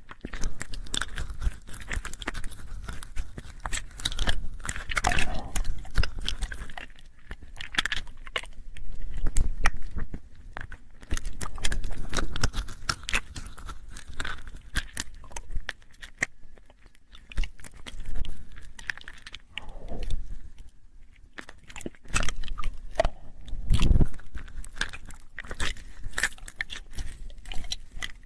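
ASMR mouth sounds close to the microphone: irregular wet clicks and smacks of lips and tongue, coming in uneven clusters, with now and then a low thump.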